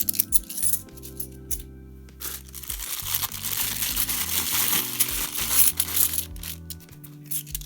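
£2 coins clinking as they are picked through and handled, with sharp chinks early and late and a denser, louder clatter of coins lasting about four seconds in the middle. Background music plays throughout.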